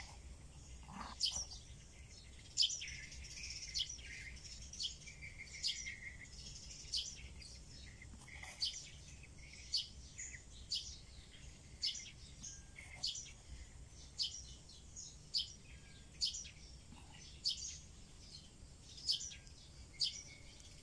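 Bird chirping: short, sharp high calls repeating about once a second, with softer high notes between them.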